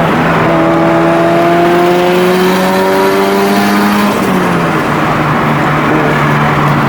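Car engine pulling through a gear with its pitch rising steadily, then dropping sharply on an upshift about four seconds in and holding steady, over road noise.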